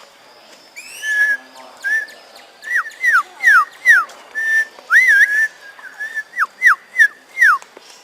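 A bird giving a loud series of clear whistles: a few short level notes, then quick downward-sliding whistles in a run, about a dozen notes over six seconds. The walkers take it for a hill myna.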